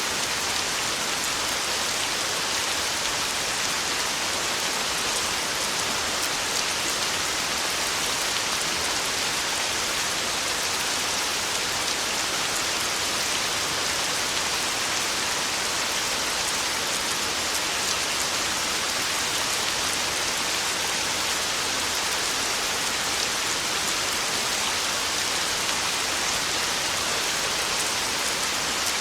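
Heavy, steady torrential rain drumming on a tin roof, a dense even hiss of drops with no thunder.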